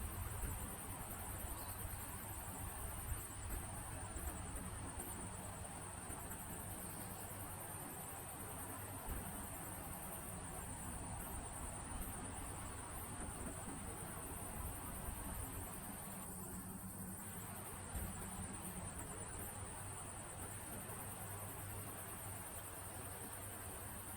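Summer insects chirring: a continuous high-pitched trill, with a second pulsing chirr above it that comes and goes every few seconds, over a steady soft hiss.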